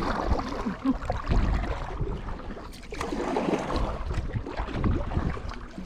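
Kayak paddles pulling through the water, with splashing and dripping that come in two swells of strokes.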